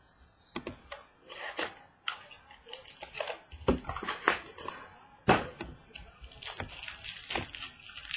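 Packaging of a trading-card mini box being torn open and handled: irregular crackles, rustles and sharp clicks of plastic wrap and cardboard.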